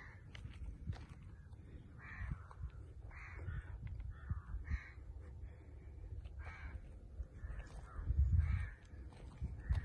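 Crows cawing repeatedly, about ten short harsh caws spread across several seconds, over a low rumble that swells about eight seconds in.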